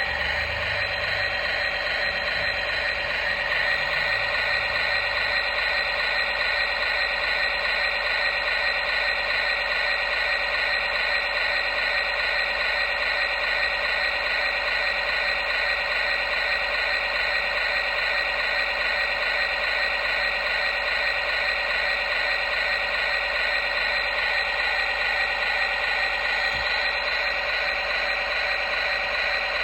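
Small electric motor and plastic gearbox of a toy construction vehicle whirring steadily, with a fast gear rattle.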